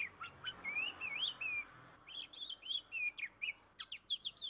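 Small birds chirping and whistling: whistled notes that rise and fall in the first second or two, a short lull, then quick chirps crowding together toward the end.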